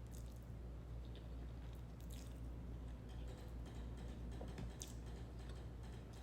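Faint chewing and small wet mouth clicks of someone eating palabok noodles, with scattered light clicks over a steady low hum.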